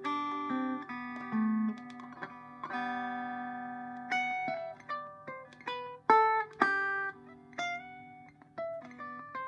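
Electric Vega banjo from about 1936–37 playing single ringing notes in a scale-like line. The notes are struck downward with the nail of the first finger, claw hammer style, so they come out quieter than with finger picks. A steady low hum sits under the notes.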